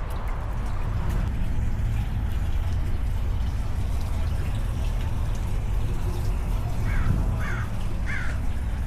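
Steady low rumble, with three short bird calls near the end.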